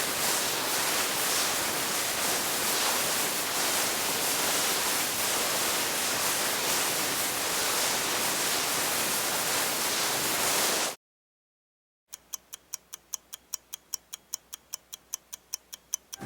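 Skis hissing steadily over snow, which cuts off about eleven seconds in. After a second of silence, a countdown clock ticks quickly, about five ticks a second.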